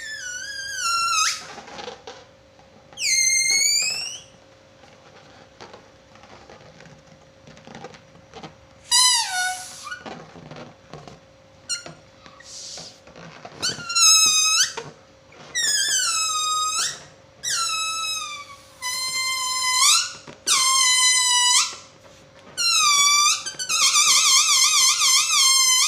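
Rubber balloon squealing as air is let out through its stretched neck: a series of shrill squeals that slide down and back up in pitch, coming closer together after the middle, with a fast warbling squeal near the end and a few small rubbery clicks between.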